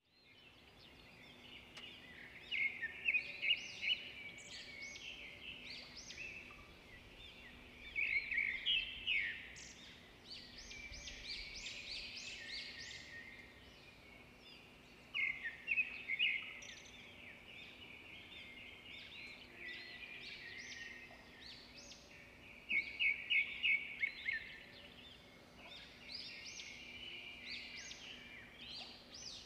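Small birds chirping and twittering in quick runs of short notes, in bursts every few seconds, over a faint steady low hum.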